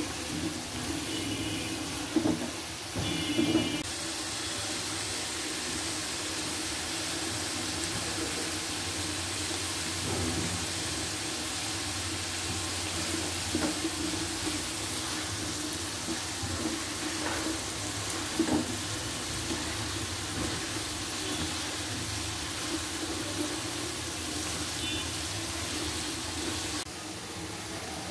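Vegetables sizzling as they stir-fry in a pan, a steady hiss broken by a few knocks and scrapes of the spatula against the pan.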